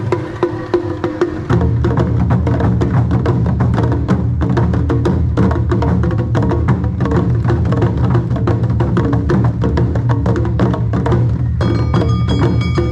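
Awa Odori festival band (narimono) playing: rapid, dense strikes of the kane hand gong over a driving taiko drum rhythm, with the drums coming in heavier about a second and a half in. A few high held tones join near the end.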